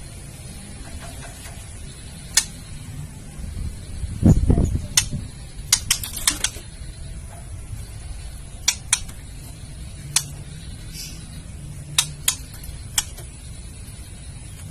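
Female white-rumped shama giving its sharp clicking 'kretekan' call, single clicks and short quick runs at irregular gaps. A louder low thump comes about four seconds in.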